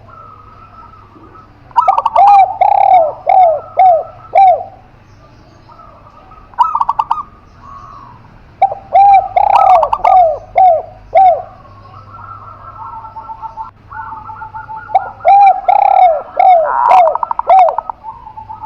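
Spotted dove and zebra dove cooing: three long phrases of five or six quick, bending coos, with a short burst of notes between the first two.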